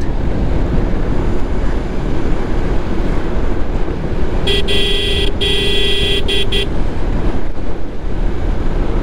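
Steady wind and road noise from a moving motorcycle. About halfway through, a vehicle horn sounds for roughly two seconds in three or four short blasts.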